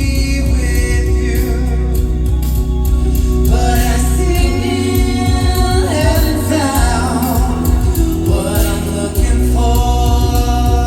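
A cappella vocal group singing live in close harmony over a deep sustained bass line, every part made by human voices and amplified.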